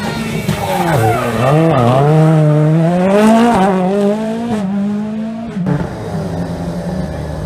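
Rally car engine at full load through a stage section: the pitch dips sharply twice as the driver lifts and shifts, then climbs and holds high. About five and a half seconds in it drops away and a steadier, lower engine note carries on.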